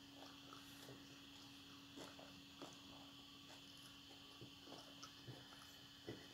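Soft, irregular chewing and small mouth clicks and smacks of a person eating chicken adobo and rice, over a steady faint hum.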